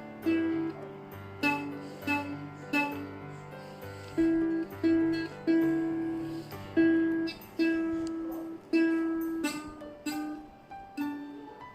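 Ukulele picked one note at a time in a slow, simple melody, about two notes a second, each note fading after it is plucked. Lower notes sound underneath for roughly the first two-thirds.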